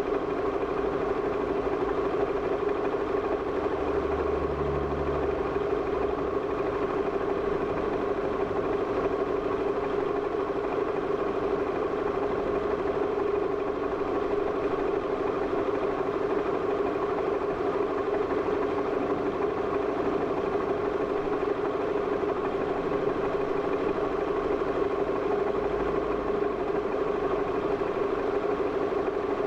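Vehicle engine idling under a steady drone, with a short low thump about four seconds in and another near the end.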